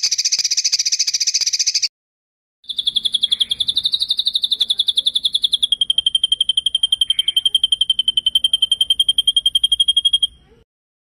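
Songbird giving a rapid, high rolling trill: a short burst of about two seconds, then after a brief pause a longer trill of about seven seconds that steps down slightly in pitch midway and cuts off abruptly.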